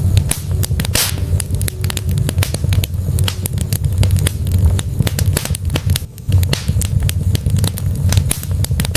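Wood fire burning in a fireplace, crackling with many small pops and a few sharper snaps, over a steady low rumble. One louder pop comes about a second in, and another near the end.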